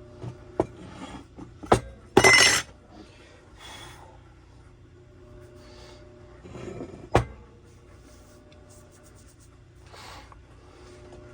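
Metal parts and tools clinking and knocking on a workbench: a few separate sharp knocks, with a brief louder clattering scrape about two seconds in.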